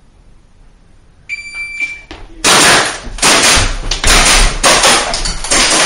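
Electronic shot-timer start beep about a second in, followed by a rapid string of pistol shots, about eight in three and a half seconds.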